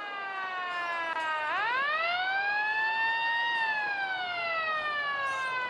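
Wailing siren in a radio-drama scene change. Its pitch sinks, then about a second and a half in it climbs quickly, levels off, and slowly falls away again.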